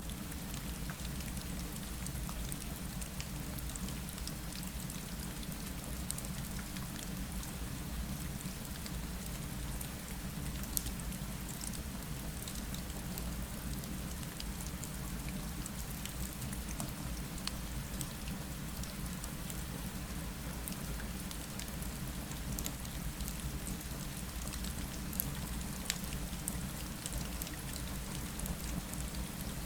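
Steady rain falling against a window, with a low rumble underneath and scattered sharp crackles from a fireplace.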